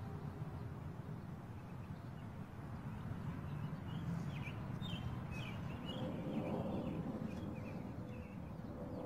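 Small birds chirping in short, quick calls over a steady low outdoor rumble, with a faint steady hum joining about six seconds in.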